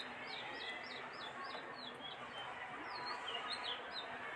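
Small birds chirping outdoors: a rapid string of short, high, falling chirps, about three a second, over faint outdoor background noise.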